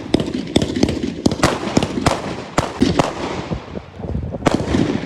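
Fireworks going off: a rapid, irregular series of sharp bangs and pops.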